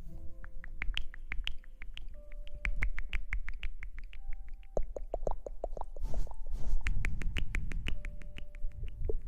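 Rapid, crisp clicks and taps close to the microphone, several a second, over a low rumble.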